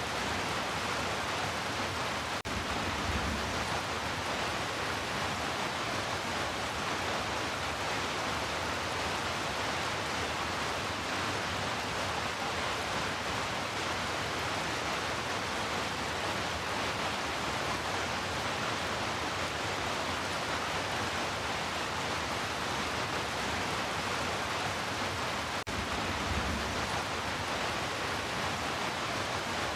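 Heavy rain falling as a steady, dense hiss. A brief low rumble swells underneath twice.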